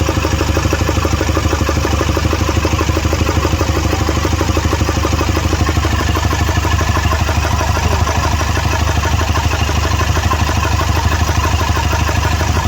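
Toyota Fortuner's four-cylinder diesel engine idling with a heavy misfire, a rough, rapid clatter that stays steady throughout. The misfire comes from two injectors, number 1 and number 4, that are not working mechanically although their electrical side works.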